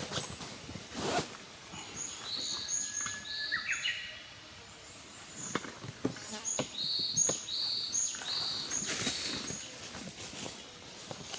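Outdoor ambience of repeated short high chirps, several to a second in runs, over scattered crackling clicks from a campfire. There is a brief rising whistle about a third of the way in.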